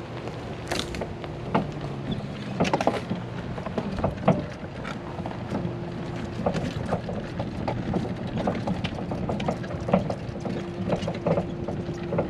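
A small vehicle's motor humming steadily as it rolls over a bumpy path, with frequent short rattles and knocks from the bumps.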